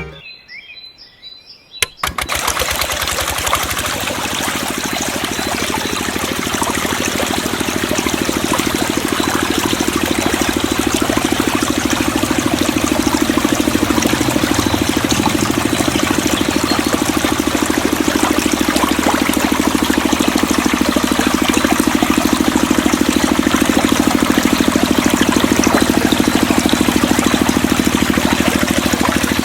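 A mini water pump starts about two seconds in and runs steadily with a fast, even pulsing, while water rushes and splashes through it.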